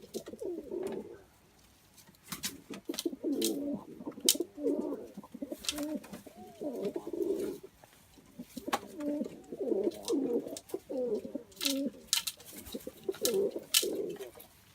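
Doves cooing over and over, several birds' soft warbling coos overlapping, with a dozen or so sharp clicks or taps in between.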